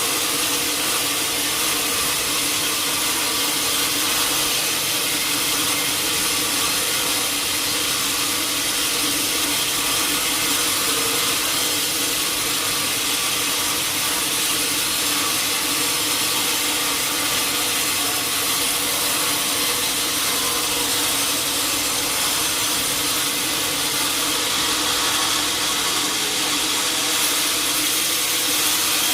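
A sawmill saw cutting a teak log: a steady machine noise with a constant hum under it, unchanging throughout.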